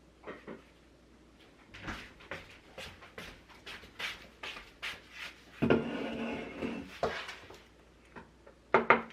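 A run of small clicks and knocks from handling things at the lunch table, then a sharp knock about five and a half seconds in followed by a held pitched tone lasting about a second and a half.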